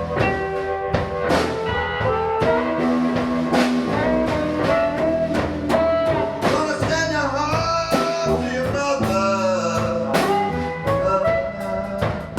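Live blues band playing a slow blues: electric guitar lead with bent notes over bass and drum kit.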